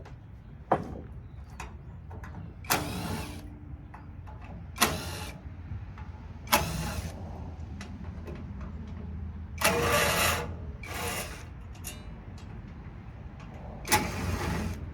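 Metal knocks and clatter from taking apart a scrap air-conditioning unit, over a steady low hum. There are about seven sharp hits at irregular intervals, each with a brief rattling clatter after it; the one about ten seconds in runs longest.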